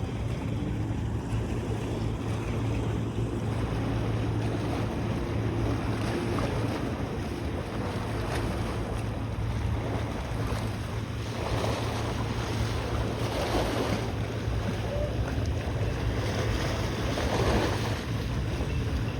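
A boat's engine droning steadily under the rush of water, with wind buffeting the microphone. The water noise swells louder a few times in the second half.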